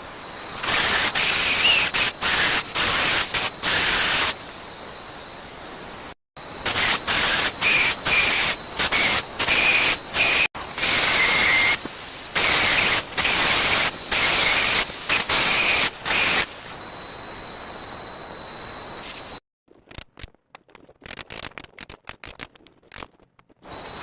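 A power tool chasing a channel into a wall for electrical wiring: a loud, rough, hissing noise in repeated spells of a second or two, with short breaks between them. Near the end it gives way to a few light knocks and scrapes.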